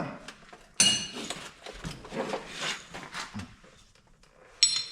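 Metal hand tools and parts clinking and scraping as a tool is worked in behind an engine part: one sharp ringing clink about a second in, softer handling noises, then a quick run of ringing clinks near the end.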